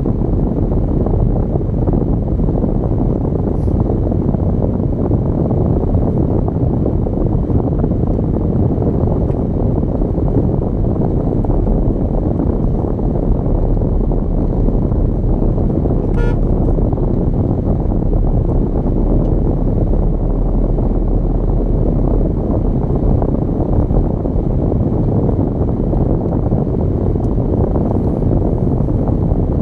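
Steady low rumble of a car driving along a road, engine and tyre noise without a break. About halfway through a vehicle horn sounds one short toot.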